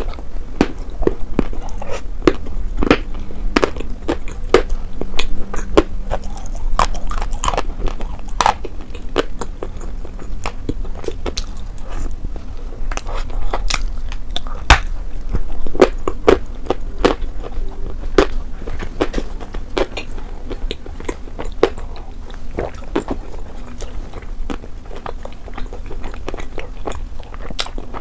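A person biting and chewing grilled mutton, with frequent irregular mouth clicks and smacks.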